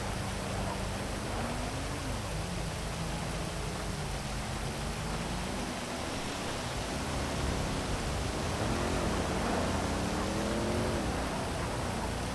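Heavy rain hissing steadily over city traffic, with vehicle engines passing underneath, their pitch rising and falling, busiest in the second half.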